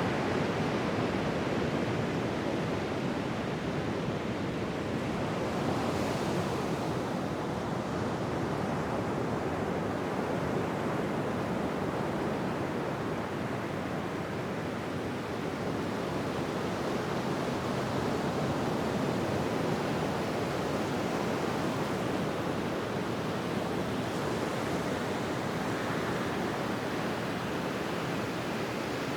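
Ocean surf washing onto a beach: a continuous rushing noise that swells a little now and then.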